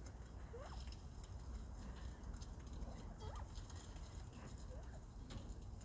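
Bobwhite quail giving a few faint, short calls, with scattered light clicks.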